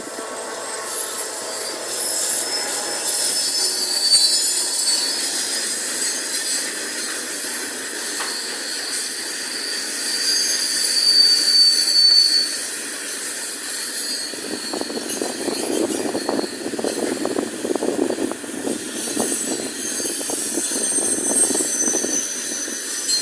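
Mineral freight train's wagons rolling past on a curve, their wheels squealing against the rails in high-pitched tones. A rolling clatter of wheels over the track grows louder about two-thirds of the way through.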